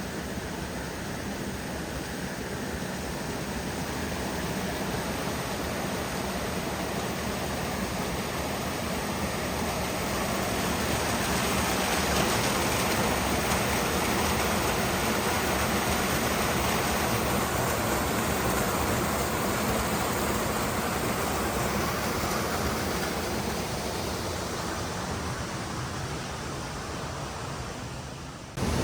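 Steady rush of a waterfall, growing louder about ten seconds in and easing near the end, then cut off abruptly.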